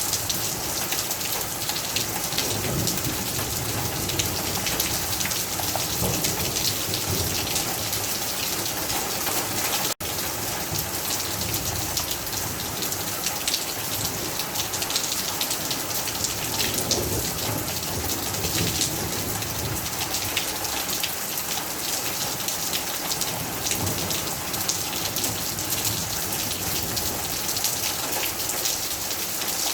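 Heavy rain falling steadily, a dense hiss full of individual drop ticks on hard surfaces, with a momentary break about ten seconds in.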